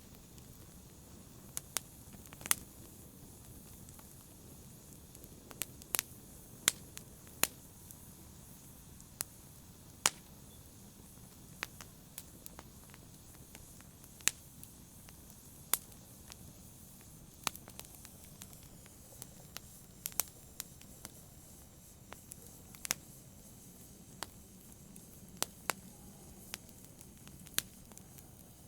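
Campfire burning: sharp, irregular crackles and pops from the wood, roughly one a second, over a soft low hiss of the flames.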